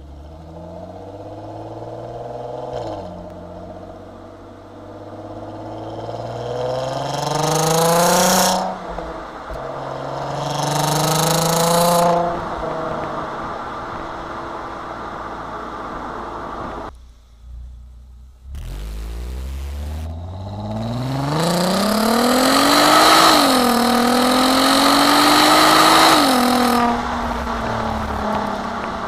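Volkswagen Golf Mk5 R32's 3.2-litre VR6 engine and exhaust under hard acceleration. The note climbs in pitch over several pulls and drops suddenly at each upshift. A short lull comes midway, then a long climb is broken by one more gear change before the car eases off near the end.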